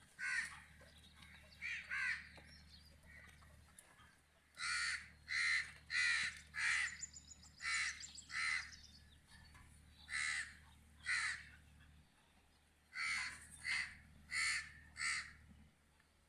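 Crow cawing repeatedly: short, harsh caws in runs of several, about one every half second or so, with pauses between the runs.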